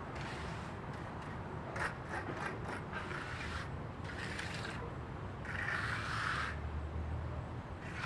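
Mechanical clicking and scraping in a few short bursts, the longest and loudest about six seconds in.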